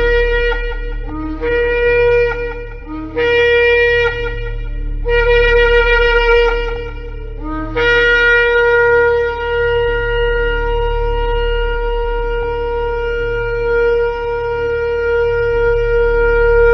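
Shofar blasts. There are three short blasts about two seconds apart, each breaking up from a brief low note to a bright, buzzy upper tone, and then one long blast held for about nine seconds, over a steady low hum.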